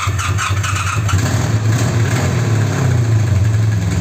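Honda VF750 motorcycle's V4 engine turned over by its starter motor on power from a jump starter, its flat battery not enough on its own; it catches within about a second and then runs steadily.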